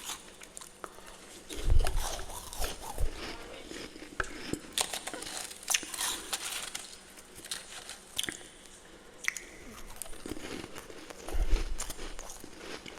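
Close-miked crunching and chewing of freezer frost, many sharp crackles with heavier bites about two seconds in and again near the end.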